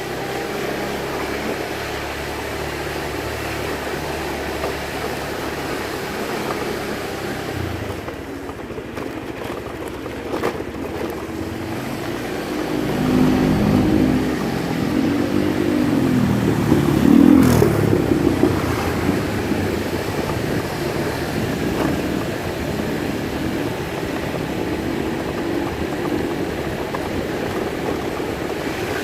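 Motor vehicle engine running on the move, with steady engine hum and road noise. From about twelve to eighteen seconds in it gets louder, with a pitch that rises and falls, then settles back to a steady run.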